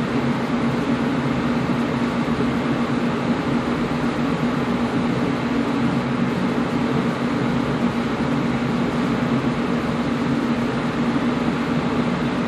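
Air conditioner running steadily: an even rushing noise with a constant low hum under it.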